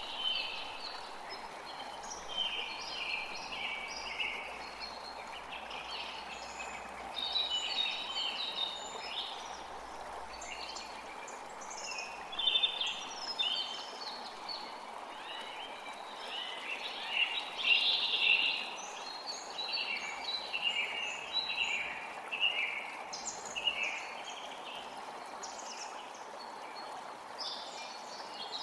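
Several birds singing and chirping in quick, overlapping phrases over the steady rush of a forest creek.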